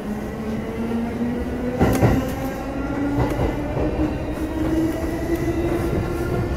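Electric commuter train heard from inside the carriage, its traction motor whine rising slowly in pitch as the train picks up speed over a rumble of wheels on rail. A sharp wheel clack on the track about two seconds in.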